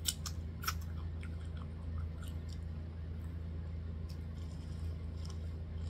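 Person chewing a mouthful of buttered corn-on-the-cob kernels, with small wet clicks and crunches and a couple of sharper clicks in the first second.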